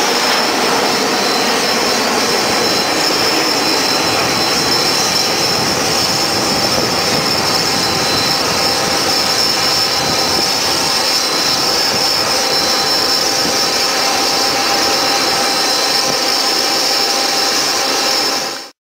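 Airbus A320's twin jet engines at takeoff power: a loud, steady jet noise with a thin high whine over it, cutting off suddenly near the end.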